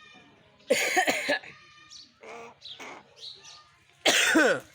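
Pet mynas giving harsh, rasping calls: a loud one about a second in and another near the end, each sweeping down in pitch, with a few softer short calls between. These birds are known to mimic coughing.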